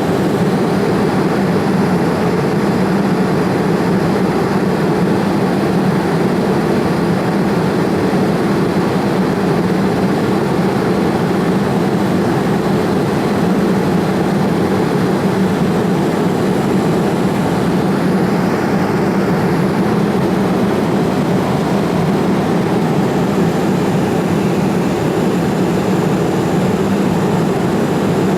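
Steady cabin noise inside a Boeing 787 Dreamliner in flight: an even rush of jet engine and airflow noise that does not change.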